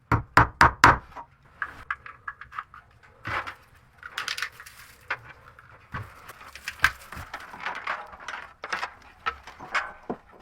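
Four sharp knocks in quick succession at the start, then scattered lighter clicks and short rustles.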